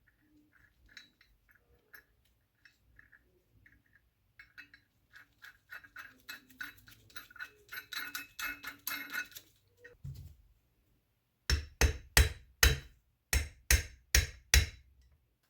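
Small metallic clinks and rattles that come thicker and faster, then eight sharp hammer blows in two groups of four.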